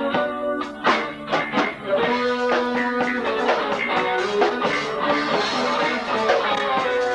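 Live band music: guitar, bass guitar and drums playing an instrumental passage of a rock song, with picked guitar notes over a steady beat.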